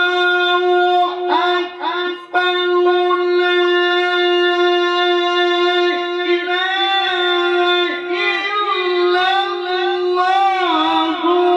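A male Qur'an reciter's voice holding one long melodic note in tilawah style, with a short break about two seconds in. In the second half the note is decorated with wavering turns and ornaments.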